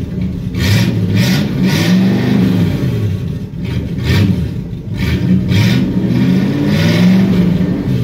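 1964 Chevrolet Impala's 283 small-block V8 running with open exhaust manifolds and no muffler, revved up and let fall back again and again. The owner says the engine is out of tune and badly needs a tune-up.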